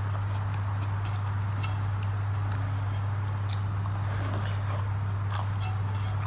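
Eating rice by hand: chewing and lip smacks, with fingers squishing and mixing rice on a plate, heard as scattered short clicks. Under it runs a steady low hum.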